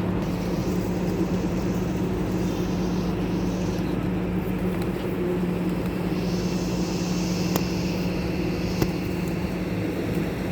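Steady motor drone with a constant low hum, like an engine running, with two sharp ticks in the second half.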